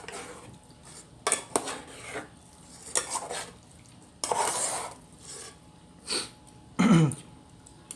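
Cutlery clinking and scraping against a plate or bowl in short, separate bursts during a meal, with one longer scrape a little after four seconds and a louder, lower clatter near the end.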